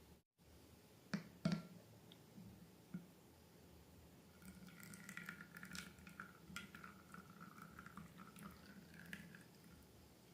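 Slime being squished and worked by hand: faint wet squishing with small sticky crackles, after a couple of sharp clicks about a second in.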